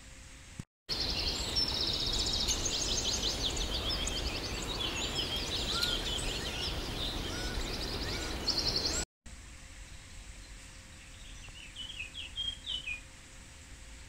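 Birds singing, many rapid chirps and trills over a steady background hiss, starting abruptly just under a second in and cutting off suddenly about nine seconds in. After that only faint hiss with a short run of chirps near the end.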